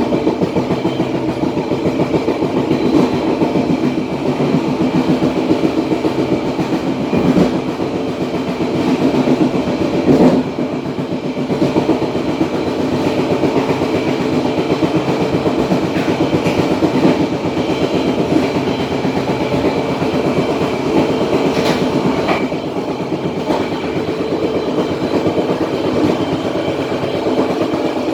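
Passenger train running along the track, heard from the rear of the last coach: a steady rumble of wheels on rails with a fast rhythmic clatter and a few louder clacks.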